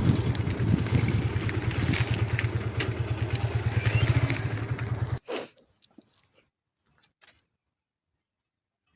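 Motorcycle engine running under way, with wind rushing over the microphone. It cuts off abruptly about halfway through, leaving near silence with a few faint clicks.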